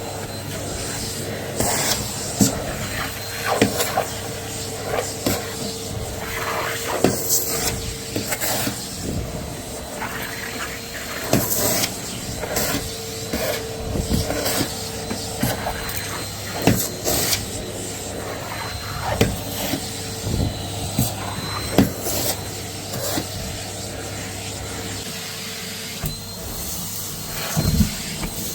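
Vacuum cleaner running with a steady hum, broken by frequent short knocks and clicks as the tool bumps along and picks up debris. The motor hum drops away near the end.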